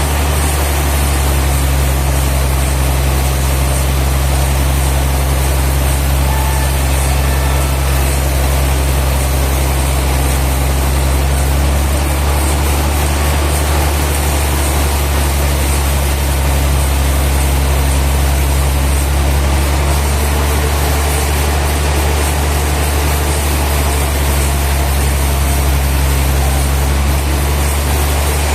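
Sawmill machinery running steadily with a deep, unchanging engine hum.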